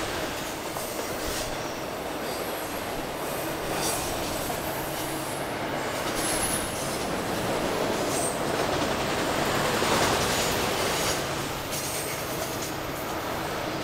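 Freight train's autorack cars rolling past on a curve: a steady rumble of steel wheels on rail, with a few brief, high-pitched wheel squeals.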